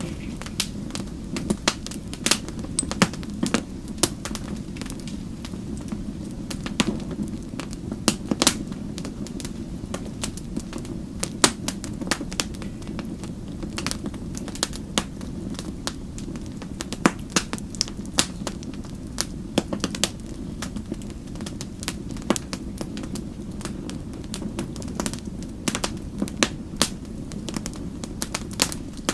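Wood fire crackling: sharp pops and snaps at irregular moments, several a second, over a steady low rush of burning.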